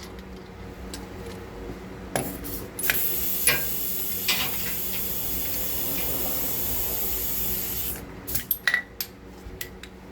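A spray hissing steadily for about five seconds, starting about three seconds in, with short clicks and clinks of tools or metal parts before and after it.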